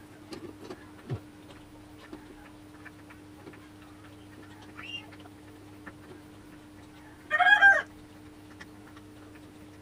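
A single short, loud bird call near the end, over a steady low hum and a few faint clicks.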